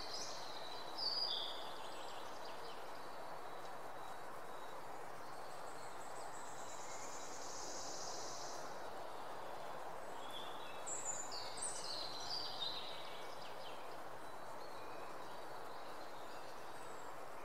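Outdoor ambience: a steady background hiss with birds chirping in short bursts, once at the start and again in a cluster about two-thirds of the way through, and a faint high drawn-out note in the middle.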